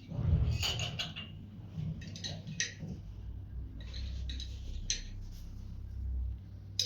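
Scattered light clicks and clinks, a few at a time, over a low rumble that is heaviest in the first second.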